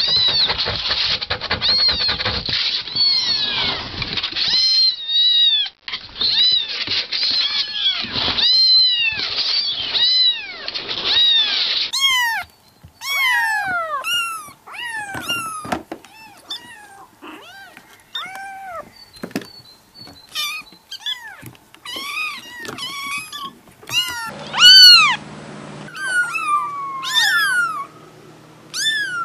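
Young kittens mewing: many short, high-pitched calls that rise and fall in pitch, one after another.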